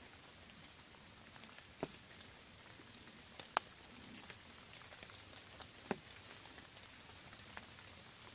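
Faint outdoor background hiss broken by a few scattered, sharp light clicks, the loudest about three and a half seconds in.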